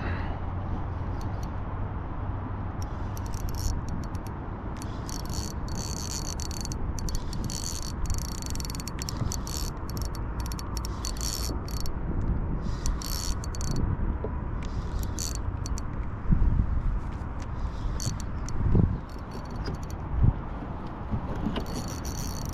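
Fishing reel being wound on a retrieve, giving stretches of high mechanical rattling, over a steady low rumble of wind on the microphone. A few dull thumps come near the end.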